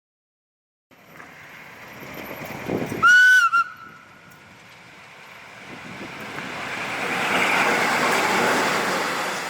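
A train passing, with one short horn blast about three seconds in. Its running noise then builds to a peak and fades away near the end.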